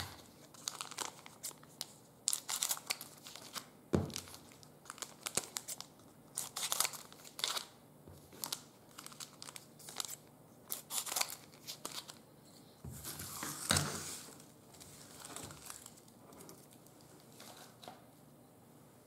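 Trading-card pack wrapper crinkling and tearing as it is opened, in many short scattered rustles.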